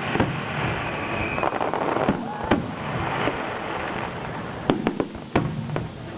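Fireworks display: continuous crackling with several sharp bangs, the loudest about halfway through and near the end.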